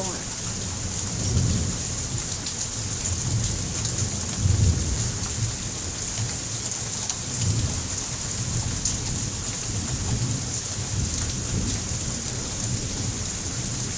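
Heavy rain pouring steadily in a thunderstorm, with low rumbles of thunder that swell loudest about one and a half and four and a half seconds in.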